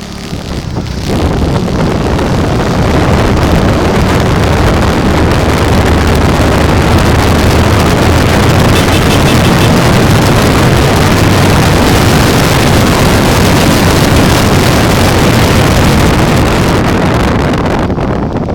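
Loud rushing wind buffeting the microphone of a camera on a moving bike, with low road rumble under it. It builds about a second in and eases near the end.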